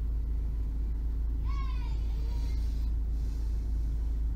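2013 Ford Focus 2.0-litre four-cylinder engine idling, heard as a steady low rumble inside the cabin. A brief high pitched tone sounds about a second and a half in.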